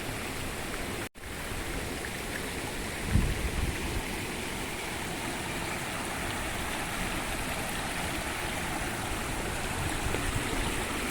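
Steady rush of water from a rocky stream and waterfall. The sound cuts out for an instant about a second in, and there is a brief low bump about three seconds in.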